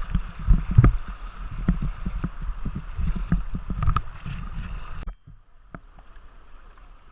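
Tandem kayak running through waves: rushing water with repeated low thumps and splashes against the hull and paddles. The noise drops away abruptly about five seconds in.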